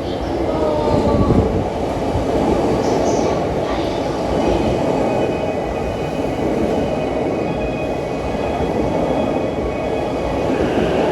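Train passing at high speed close by: a loud, steady rush and rumble of wheels on rail, with thin high whining tones over it from about four seconds in.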